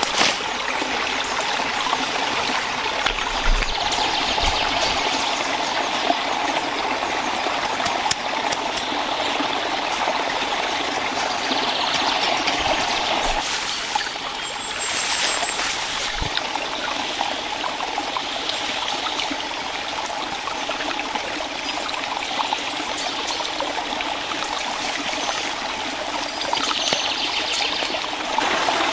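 Small stream trickling and babbling steadily.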